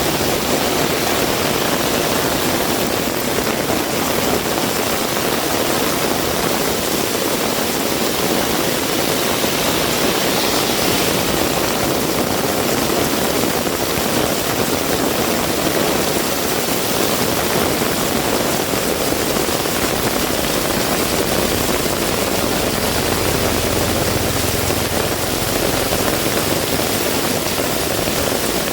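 Heavy rain pouring down steadily, a dense even hiss. A low rumble rises briefly about twenty-three seconds in.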